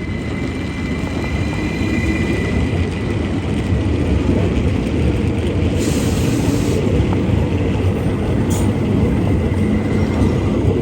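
Train running on the rails with a steady loud rumble, a faint steady whine above it, and a hiss for about a second about six seconds in, with another brief hiss a couple of seconds later.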